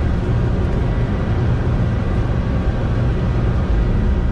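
Steady engine and airflow noise heard inside the flight deck of a Boeing 747-200 climbing at takeoff thrust just after liftoff.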